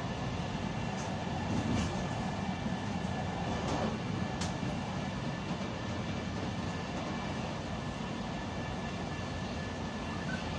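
Steady rumble of a moving passenger train, heard from its rear end, with a few sharp clicks in the first half.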